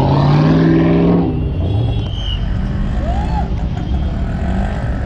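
Car engine revving: the pitch climbs, then drops back about a second in and the car settles into steady street traffic noise.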